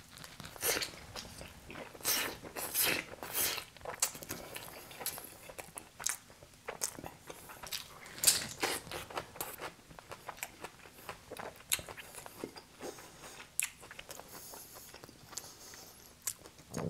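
Close-miked eating sounds of hot double-cheese pepperoni pizza being bitten and chewed: irregular crunches and chewing, busiest in the first half. The loudest crunch comes about eight seconds in, as a pepperoncini is bitten.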